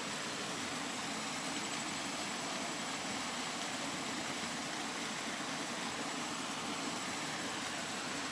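Steady, unbroken rain: an even hiss with no separate drops, gusts or thunder standing out.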